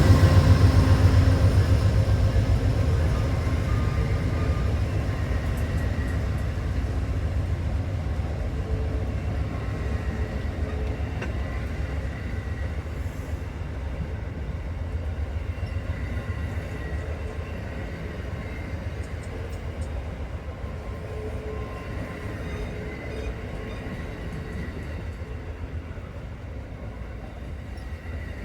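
Departing Via Rail passenger train rolling away, a steady low rumble of wheels and cars on the rails that fades gradually, with faint thin ringing tones from the wheels.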